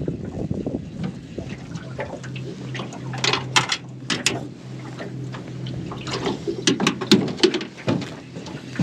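Freshly caught squid being handled in the boat, squirting and splashing water in irregular wet spurts, in two busier clusters a few seconds apart. A steady low hum runs underneath through most of it.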